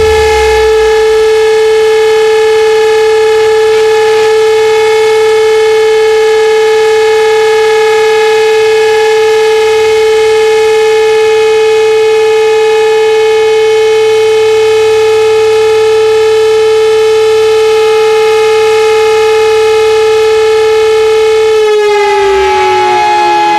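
Fire-station alarm siren sounding one long, loud, steady tone, then starting to wind down in pitch near the end.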